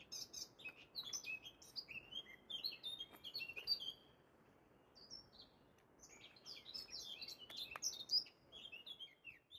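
Songbirds chirping and trilling, many short, quick, high calls overlapping, with a lull of about two seconds in the middle before the chirping resumes.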